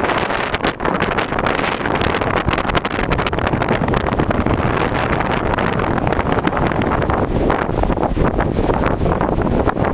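Hurricane Ike's wind blowing hard and buffeting the microphone: a loud, unbroken rush full of rapid crackles.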